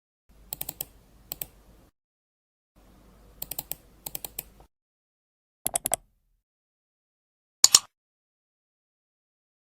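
Groups of crisp clicks and taps: two runs of rapid clicks over a faint low hum in the first five seconds, then four quick clicks around six seconds in and a loud double click near eight seconds.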